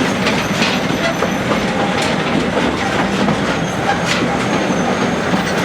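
Akasawa forest railway's narrow-gauge train running, heard from aboard: a steady rumble with the wheels clacking over rail joints, often in quick pairs.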